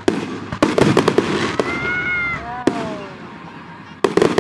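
Fireworks going off in a rapid volley of sharp bangs and crackles, then a short pitched wail that falls in pitch, and another cluster of bangs near the end.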